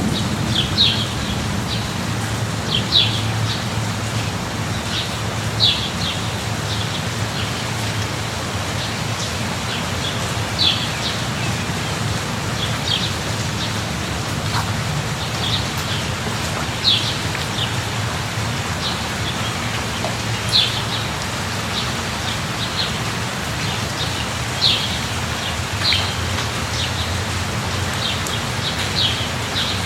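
Steady rain falling, with a bird giving short high chirps every few seconds.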